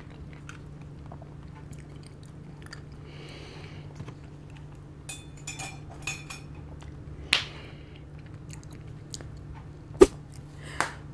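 Close-miked chewing of a mouthful of food, with small wet mouth clicks and smacks, over a steady low hum. A sharp click comes near the end.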